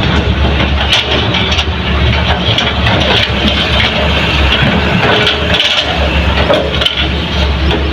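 Heavy diesel engine of earthmoving machinery running steadily, with a scatter of short knocks and crackles.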